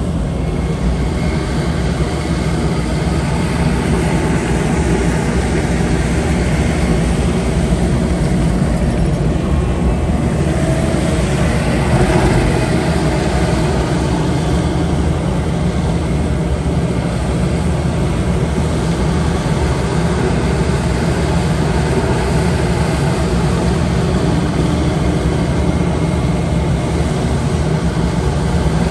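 Diesel engine running steadily under work, with a slight rise in level about twelve seconds in.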